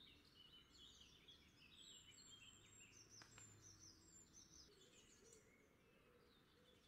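Near silence, with faint bird chirps in the background that drop away about five seconds in.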